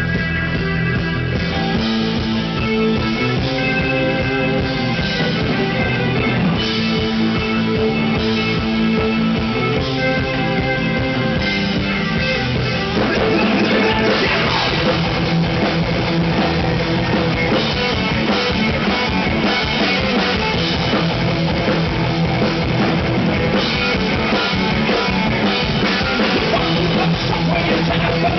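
A live rock band playing: electric guitar lines over a drum kit. About 13 s in the sound gets louder and denser as the full band comes in harder.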